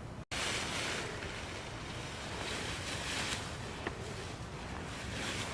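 Dry fallen leaves rustling and crunching, coming and going in patches of hiss.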